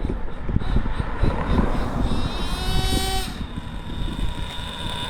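Nitro RC truck's JL MAX .28 glow engine running at high revs. It gives a high whine about two seconds in that climbs slightly for about a second, then cuts off.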